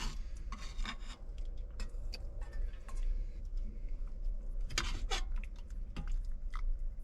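Eating sounds and small clicks and scrapes of a spoon and bowl as chicken soup is served and eaten, over a steady low rumble.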